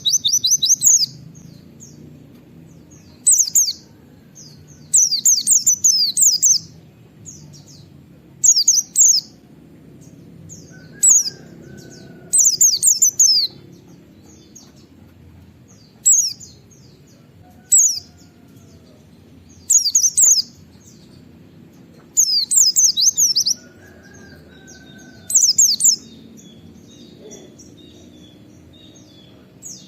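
A white-eye (pleci) singing in short, high-pitched bursts of rapid chirping trills, a fresh burst every couple of seconds, over a faint low steady hum.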